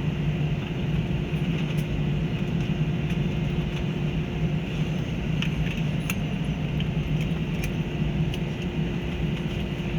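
Steady airliner cabin noise as the plane taxis after landing: a low, even hum of idling engines and cabin air, with faint scattered clicks and rattles.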